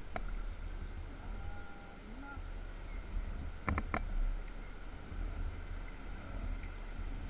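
Wind rumbling on the microphone while kayaking, with a quick cluster of three sharp knocks about four seconds in and a few faint chirps early on.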